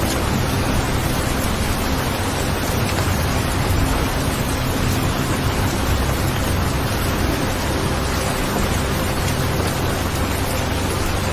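Steady rain: an even, unbroken hiss of rainfall with a low rumble underneath.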